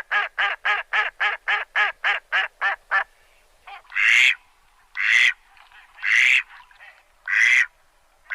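An animal calling: a fast run of about a dozen short, nasal, quack-like calls, about four a second, then four longer, harsher calls about a second apart.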